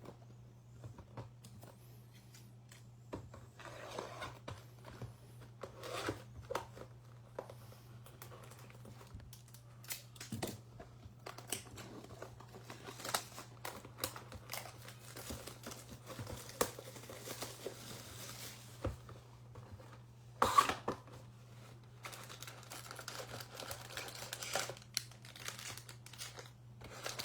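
Plastic shrink-wrap being torn and crinkled off a Prizm baseball card hobby box, then the box opened and its foil packs handled, in a run of crackles and taps with one sharper, louder rip about twenty seconds in. A steady low electrical hum lies underneath.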